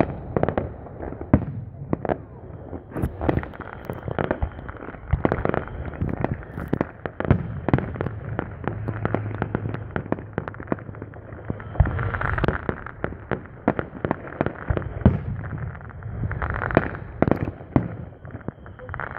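Aerial fireworks going off in quick succession: a dense, irregular string of sharp bangs and crackling pops, many overlapping, with louder booms scattered among them.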